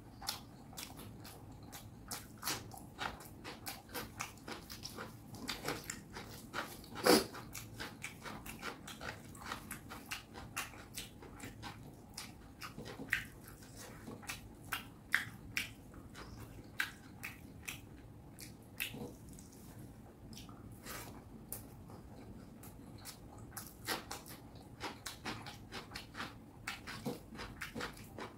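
A person eating fish curry and rice: wet chewing and mouth-smacking with many short, irregular clicks, the loudest about seven seconds in.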